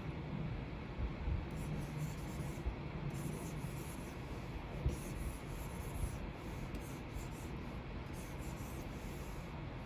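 Pen stylus scratching and rubbing across the surface of a Wacom Cintiq 24 Pro pen display in continuous drawing strokes, with a few soft knocks of the pen about 1, 5 and 6 seconds in.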